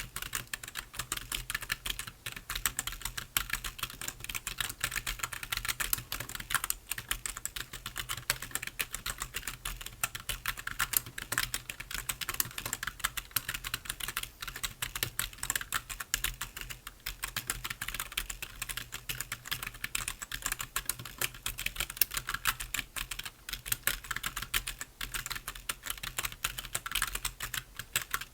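Computer keyboard being typed on continuously: a fast, irregular stream of key clicks with no real pauses.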